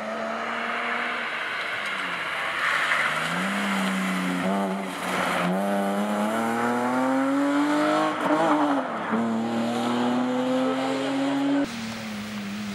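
BMW E30 rally car's engine pulling hard through the gears, its note climbing steadily and dropping back at each upshift, twice, over a steady hiss of tyre and road noise. Near the end the sound cuts abruptly to a steadier engine note.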